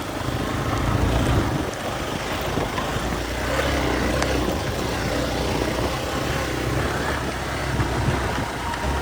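Motorcycle engine running steadily with a low hum, under a continuous hiss of outdoor noise.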